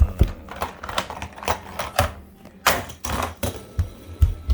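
Hot Wheels die-cast toy monster truck clattering over a plastic toy track and crush cars: a quick irregular run of clicks and knocks with a few heavier thumps and brief scrapes.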